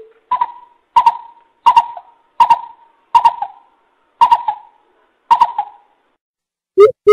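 Coucal (bubut) calling: a series of about seven hooting notes, a little under a second apart, then near the end a faster run of deeper hoots begins.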